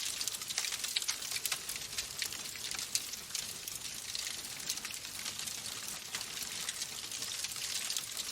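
Wood fire crackling in a fireplace: a steady hiss with many small, irregular pops and snaps.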